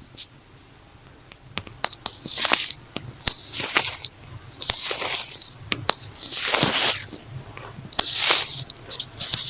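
A notebook cover scratched and rubbed close to the microphone in an earphone-massage ASMR recording. After a quiet first couple of seconds with a few sharp clicks, there are five long rasping strokes, about one a second, with small clicks between them.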